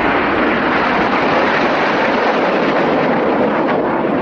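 BAE Hawk T1 jets flying over in formation: loud, steady jet noise from their Adour turbofan engines.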